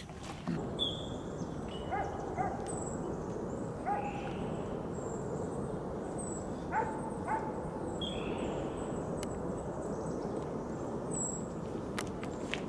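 Birds calling over a steady outdoor background hiss: short clear notes, twice in quick pairs, with thin higher chirps now and then.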